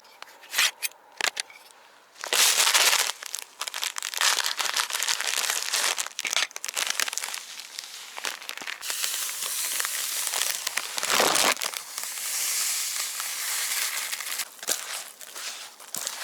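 Dense rustling and crackling of dry grass and brush as someone moves through it on foot, with a few sharp clicks in the first two seconds before it starts.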